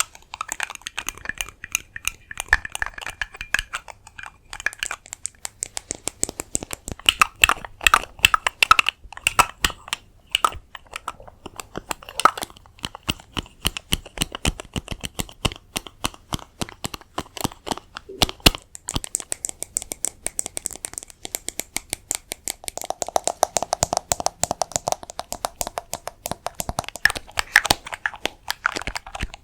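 Rapid, dense tapping on hard objects close to the microphone. At times a tapped object rings with a faint tone.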